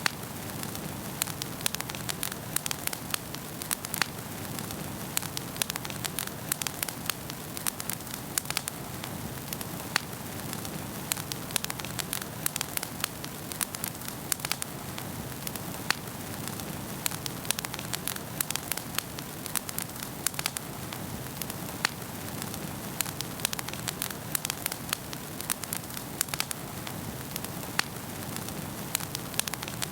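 Wood fire in a fireplace crackling steadily, with sharp pops several times a second over a continuous low bed of flame noise.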